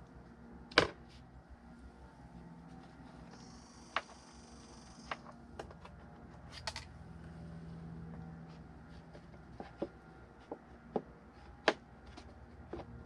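Scattered clicks and knocks of plastic heater-box parts being handled and pulled apart, the loudest about a second in, with a brief high hiss around four seconds in.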